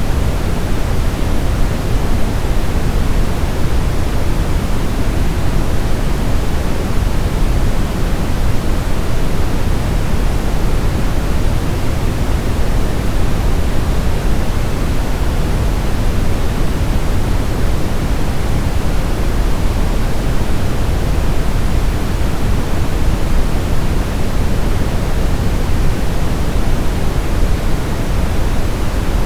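Steady generated sleep-aid noise: an even, unbroken hiss, heavier in the low end than in the highs.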